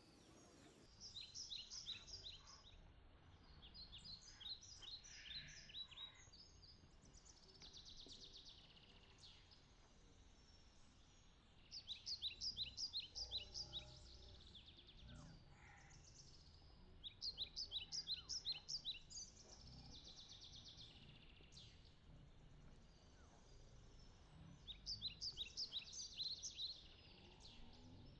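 A songbird singing: short phrases of rapid, high, repeated chirps, each about two seconds long, coming about five times with pauses of a few seconds between, over a faint outdoor background.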